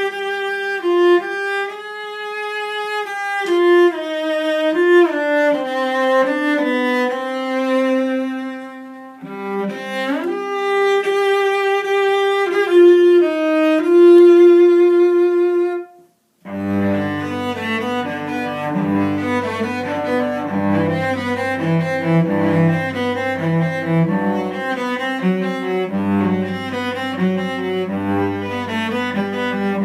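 Eric Hausner 2002 full-size cello, strung with Spirocore tungsten strings, played with the bow: a slow singing melody high on the strings with sliding shifts between notes. About sixteen seconds in it stops briefly, then goes on with quick running figures across the strings that reach down to the low strings.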